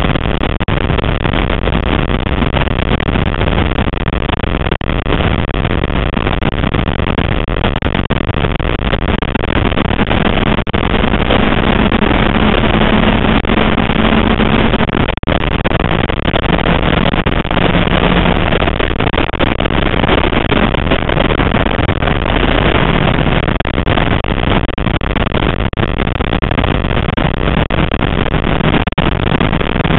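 Classic Mini Cooper's four-cylinder A-series engine running hard at racing speed, heard from inside the cabin with loud road and wind noise. The engine note rises and then drops to a lower pitch about halfway through, and changes pitch again later.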